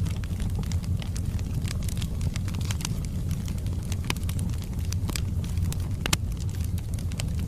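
Wood fire burning in a fireplace: a steady low rumble of the flames with irregular sharp crackles and pops from the burning logs, a few louder ones.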